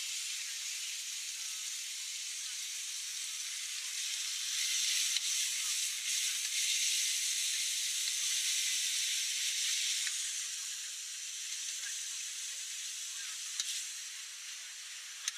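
Cubed beef for lok lak sizzling in a hot wok as it is stir-fried. The sizzle swells louder for several seconds in the middle, with a few sharp clinks of the ladle against the wok.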